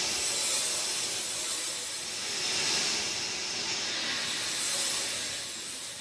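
Steady rain falling, an even hiss that swells and eases every couple of seconds.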